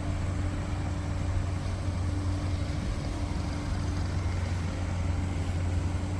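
Engine running steadily, a constant low drone with a faint steady hum above it and no distinct knocks or dumps.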